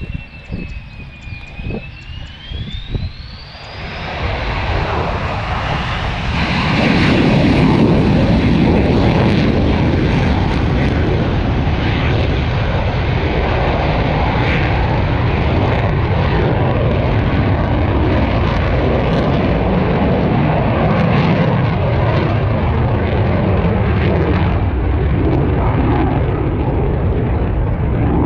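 Military aircraft engine noise that swells about four seconds in to a loud, steady roar and holds for the rest of the stretch.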